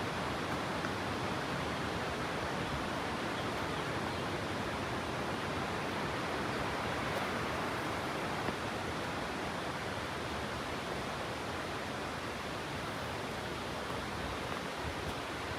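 Steady, even rush of flowing or falling water.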